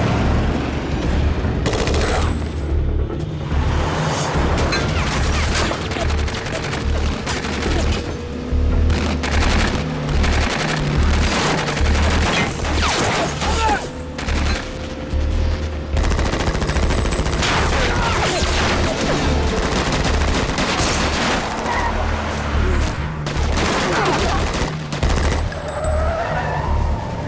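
Sustained bursts of automatic gunfire, shot after shot in rapid volleys, over a low rumble, with tense film score music underneath.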